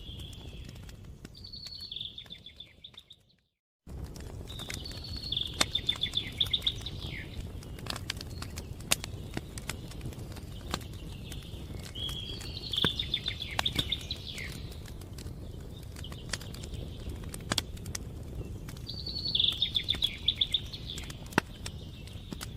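Wood fire crackling with scattered sharp pops over a steady low rumble, while a songbird sings a short trilled phrase four times. The sound fades and cuts out for under a second about three seconds in, then resumes.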